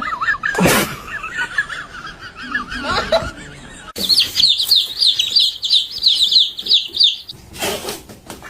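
Small birds chirping in quick repeated runs: lower chirps first, then after an abrupt cut a faster, higher-pitched run of chirps. A few sharp knocks come near the end.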